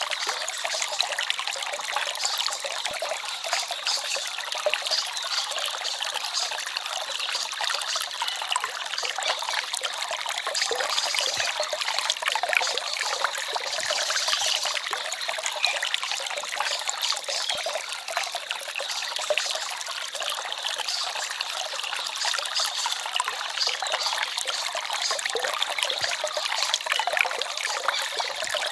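Small forest stream trickling and babbling: a steady, unbroken rush of water full of tiny splashes, light and hissy with no deep rumble.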